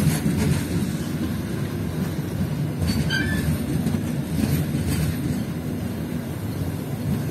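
Long passenger train's coaches passing, a steady low rumble of steel wheels on rail, with a brief high wheel squeal about three seconds in.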